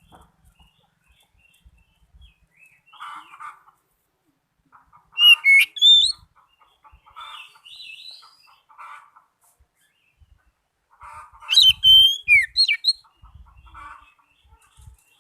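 Oriental magpie-robin (kacer) singing: two loud bursts of quick, sweeping whistled notes, about five seconds in and again near twelve seconds, with quieter scratchy phrases in between.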